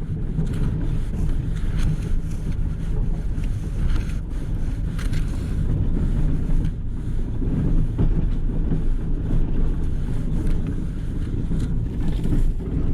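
Engine of a plow vehicle running with a steady low drone while pushing snow, with a few faint knocks along the way.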